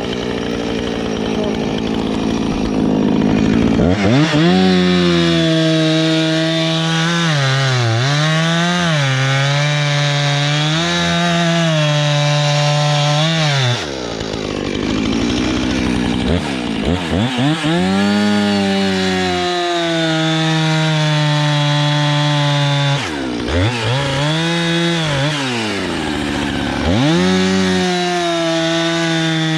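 Gas chainsaw bucking a felled tree: it idles, revs up about four seconds in, and its pitch sags as the chain bites into the wood. It drops back to idle between cuts a few times and revs up again each time.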